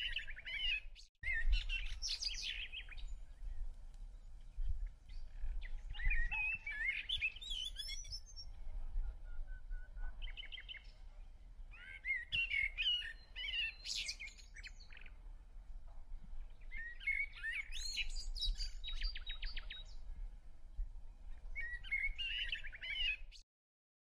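A songbird singing short warbling phrases, about six of them a few seconds apart, over a steady low rumble. The sound cuts off suddenly near the end.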